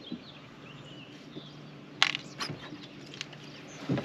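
A sharp click about two seconds in, followed by a few lighter clicks and rattles. Faint bird chirps and a low steady hum sit under them.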